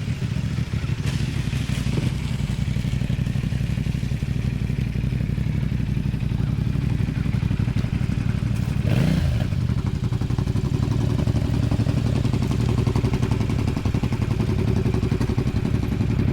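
Motorcycle engines idling steadily close by, with a brief blip of the throttle about nine seconds in.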